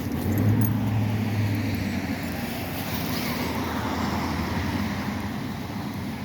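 A car passing by on the road, loudest about half a second in and slowly fading over the next few seconds.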